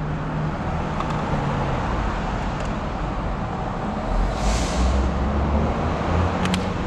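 Road traffic on a city street: steady traffic noise, with a vehicle's low engine rumble building from about four seconds in and a short hiss near the middle.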